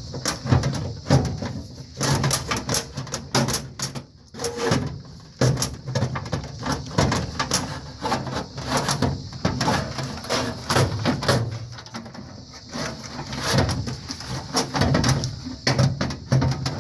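Sheet-metal furnace air box assembly being pushed and worked back into place, with repeated knocks, clanks and scrapes. It is catching on something and will not slide home.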